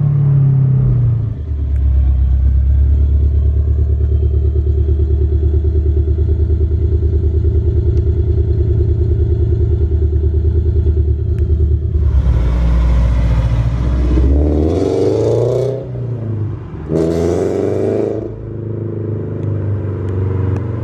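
Toyota GT86's flat-four boxer engine running through a freshly built custom exhaust: a steady, evenly pulsing idle drone. About twelve seconds in a hiss joins, and the engine is revved twice near the end.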